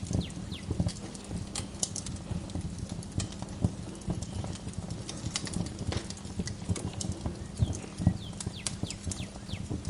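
Wood fire crackling and popping irregularly over a low rumble, with a few short, falling bird chirps near the start and again near the end.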